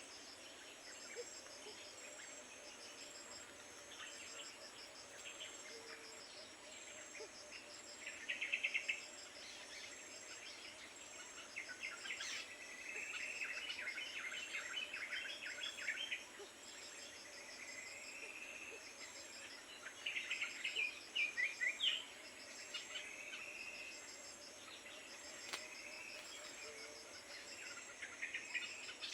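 Insects chirping in a steady repeating high pulse, with birds calling over it in bursts of chirps and quick trills, loudest about a third of the way in, in the middle and again around two-thirds through.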